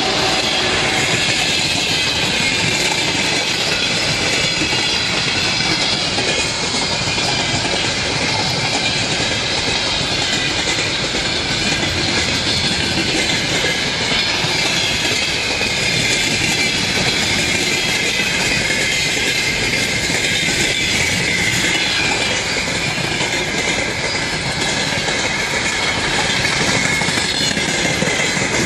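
Freight train hauled by a 2TE116 diesel locomotive rolling past close by: a steady loud rumble with wheels clattering over the rail joints and thin, high wheel squeal over it.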